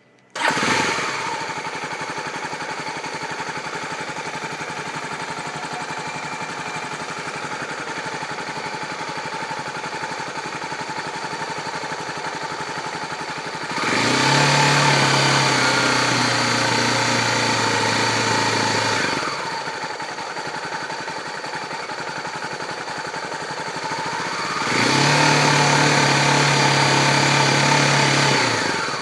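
Motorcycle engine running, coming in abruptly at the start and settling at idle. It is twice raised to a steady higher speed, each time held for about five seconds, then let back down to idle.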